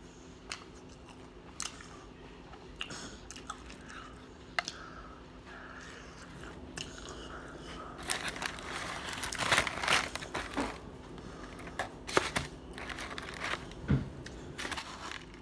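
A person chewing and crunching breaded fried chicken tenders close to the microphone, with scattered mouth clicks at first and louder, denser crunching from about eight seconds in.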